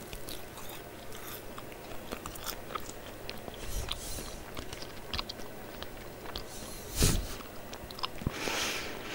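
Close-miked ASMR eating: crunchy food bitten and chewed, with crisp crackling clicks and a louder thump about seven seconds in.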